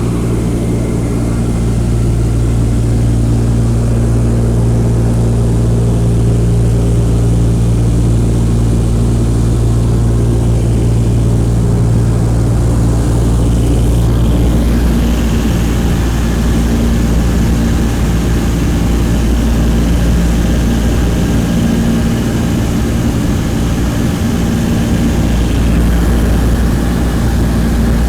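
The Douglas DC-3's twin Pratt & Whitney R-1830 radial engines and propellers running, heard from inside the cabin as a steady, loud, low drone. About halfway through the note shifts and a higher hum joins in, as the engine power changes.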